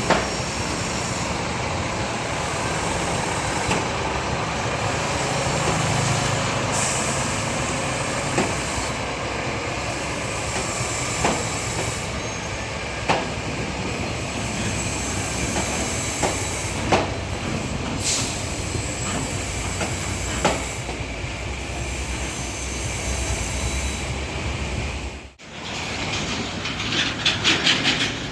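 Heavy trucks running past on a road: a steady rumble of engine and tyres, with a sharp knock every few seconds. Near the end there is a fast run of rattling clicks.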